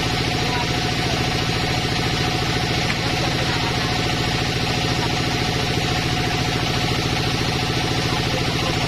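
Sawmill engine running steadily with a fast, even firing beat.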